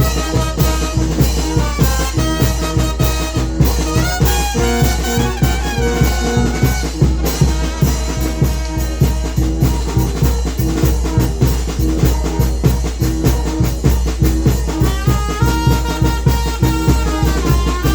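Mexican wind band (banda de viento) playing: brass carrying the melody over a strong bass line and drums keeping a steady, quick beat.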